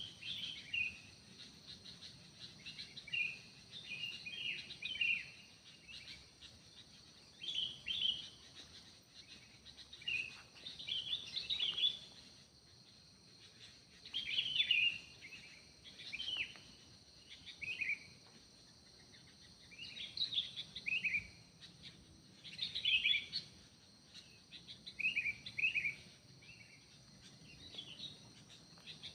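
Forest birds singing in short, quick chirping phrases, repeated every second or two, over a steady high-pitched insect drone.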